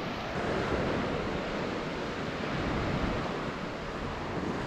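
Ocean surf washing onto a beach, a steady rush of noise, with wind buffeting the microphone.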